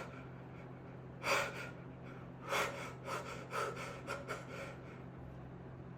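A man breathing in gasps during an emotional release in a breathing exercise: one sharp breath about a second in, another a little later, then a run of short, quick breaths, over a faint steady low hum.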